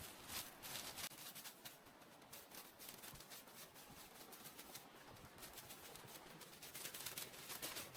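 Faint, irregular rustling with light clicks and scrapes, a little busier in the first second and again near the end.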